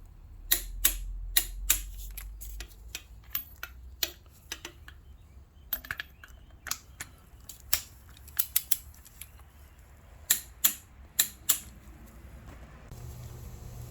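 Torque wrench ratcheting on the starter mounting bolts as they are torqued to 35 foot-pounds: a long run of sharp, irregular clicks, some in quick clusters.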